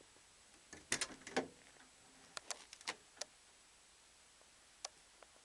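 A series of sharp clicks and knocks in two clusters, then one more click near the end, like a car door's handle and latch being worked as the door is opened.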